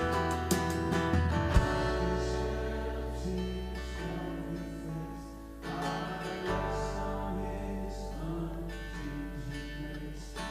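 Live church worship music led by acoustic guitar strumming over steady bass notes; it softens about five seconds in and swells again just after.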